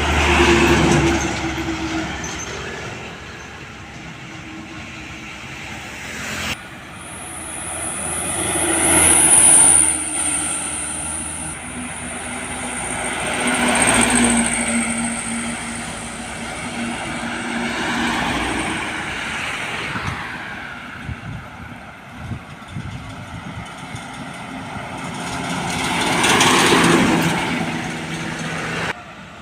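Heavy trucks driving past one after another, each engine and set of tyres swelling up loud and then fading away, about five pass-bys in all.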